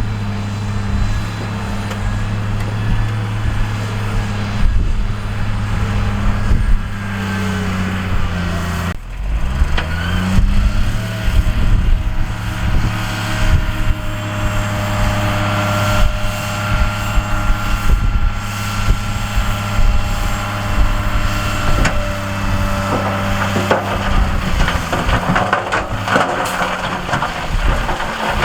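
Heavy diesel earthmoving machine engine running steadily; about nine seconds in it dips and then revs up to a higher, steady pitch under load. Near the end, rock and gravel clatter as the material is moved.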